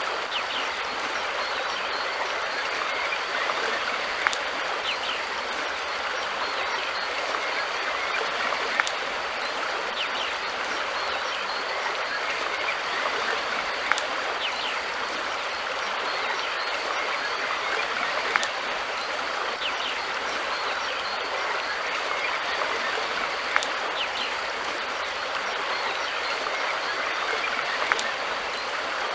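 Steady rush of river water flowing, with a sharp click about every four to five seconds.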